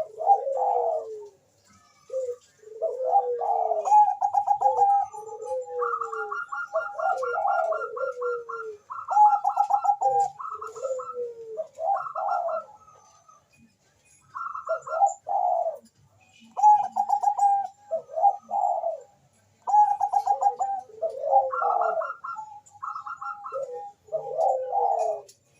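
Bangkok-type perkutut (zebra doves) cooing energetically in quick rolling trilled phrases. Higher and lower calls overlap as one bird answers another, with short pauses between phrases.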